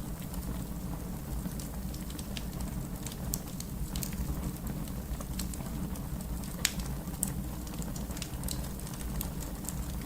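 Fire crackling: a steady low rumble of flames under scattered sharp pops and snaps, with one louder pop about two-thirds of the way through.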